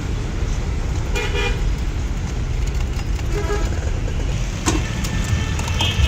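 Steady low rumble of street traffic, with a short vehicle horn toot about a second in and a fainter one near the middle, and a sharp click near the end.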